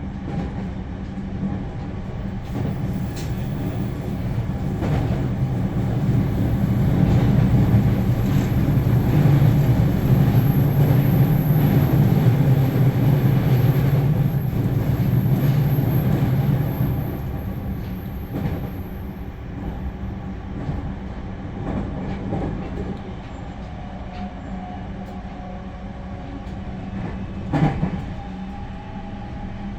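Onboard running noise of a JR Central 315 series electric train at speed: a steady low rumble of wheels on rail that swells through the middle and then eases off. A faint high-pitched whine runs through the first two-thirds, and there is a single sharp clack near the end.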